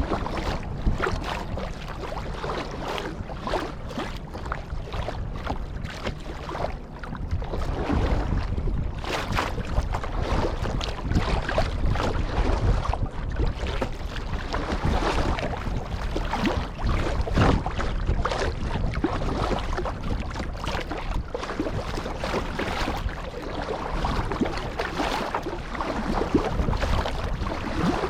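Kayak paddle strokes splashing through sea water, with water washing along the hull and wind rumbling on the microphone.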